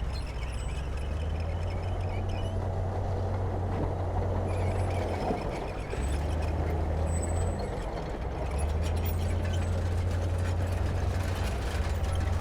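Diesel engine of heavy earthmoving equipment running with a steady low drone. The engine note dips and shifts twice, about halfway through and again a little later.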